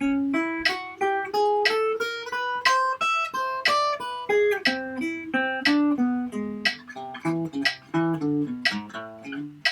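Guitar playing a slow single-note melody in 6/8 time, about three plucked notes a second. The line climbs in pitch over the first few seconds, then drops back lower.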